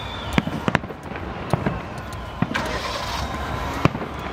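Fireworks display going off, with about half a dozen sharp bangs at irregular intervals and a brief hiss about two and a half seconds in.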